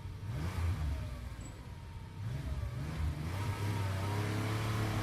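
BMW 6 Series Gran Turismo's inline six-cylinder engine accelerating, its pitch rising and falling a few times before holding steadier near the end.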